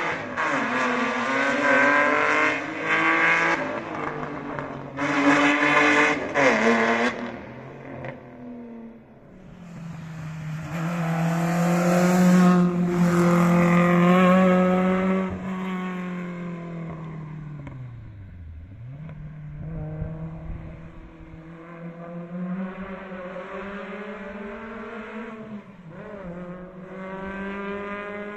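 Historic rally car engines at high revs on a closed stage. One revs hard with quick gear changes in the first seven seconds, then another runs loud and steady before its pitch dips sharply about eighteen seconds in, and engine sound builds again near the end.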